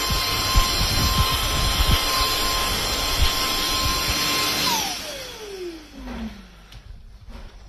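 FDUXUD cordless stick vacuum running with a steady rush of air and a high motor whine, then switched off about two-thirds of the way in, the whine falling in pitch as the motor spins down. A few faint clicks follow.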